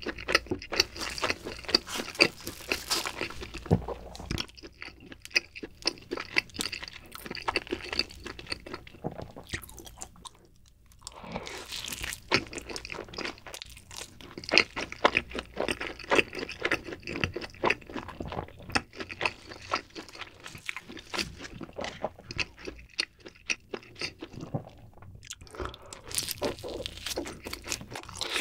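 Close-miked eating of cheese pizza: many sharp crunches and chewing sounds in quick succession, with a short pause about ten seconds in.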